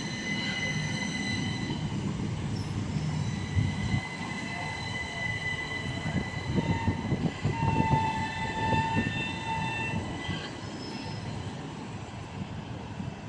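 Class 375 Electrostar electric multiple unit running through the station: a steady rumble of wheels on rail, with high steady squealing tones from the wheels. The rumble grows busier in the middle and fades after about ten seconds as the train moves off.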